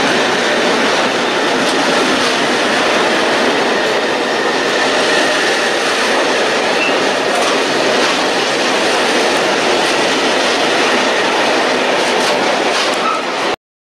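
A train passing close by at speed: a steady rush of wheels on rails with a few faint clicks. It cuts off suddenly near the end.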